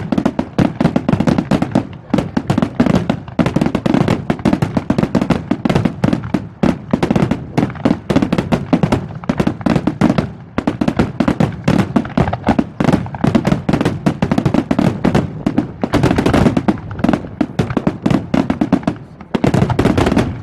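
Fireworks display: a dense, continuous barrage of rapid bangs and crackles, heaviest about three-quarters of the way through and again near the end.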